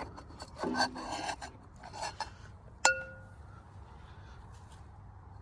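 Metal parts of a tractor's oil filter housing being handled: scraping and rubbing, then one sharp metallic clink about three seconds in that rings briefly.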